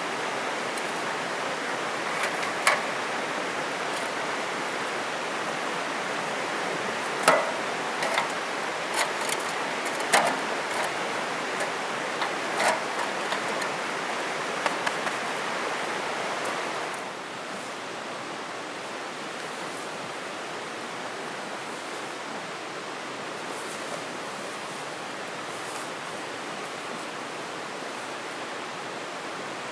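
Steady rush of a flowing river, with scattered sharp clicks and knocks over the first half. About 17 s in the rush drops to a quieter level and stays steady.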